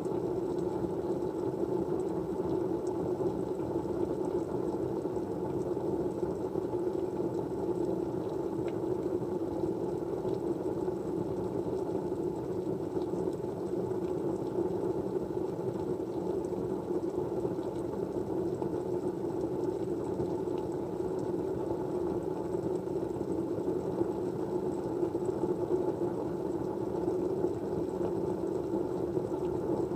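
Steady white-noise ambience: an even, unbroken rushing sound, deep rather than hissy, that holds the same level throughout.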